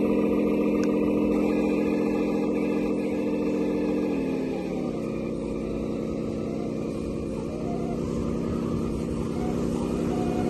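Engine sound of a 1/14-scale Scania RC truck running steadily. About four seconds in it drops to a lower pitch and holds there, rising slightly again near the end.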